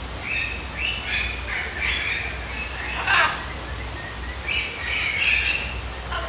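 Birds calling: a series of short, harsh squawking calls about every half second, with one call sweeping downward in pitch about three seconds in.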